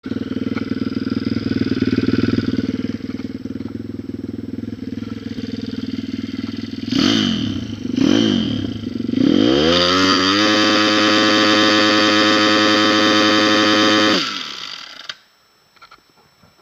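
Motorcycle engine idling, then blipped twice and revved up to a steady high pitch held for about four seconds, which is the loudest part. The revs then fall away and the engine cuts out, in a run the owner presents as the death of the motorcycle.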